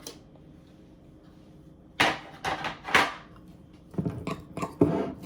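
Chopped vegetables being added to a mixing bowl: two brushing scrapes about two seconds in, then a few light knocks of a utensil against the bowl near the end.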